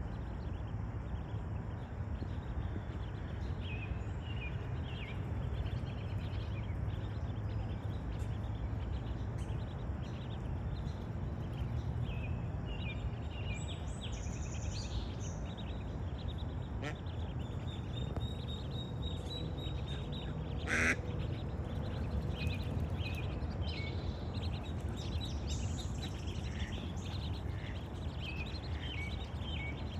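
Ducks quacking on and off over a steady low outdoor rumble, with scattered short bird calls and one brief louder sound about two-thirds of the way through.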